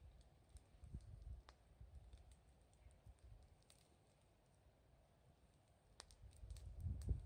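Wood fire crackling faintly, with sparse sharp pops and snaps, and a low rumble rising near the end.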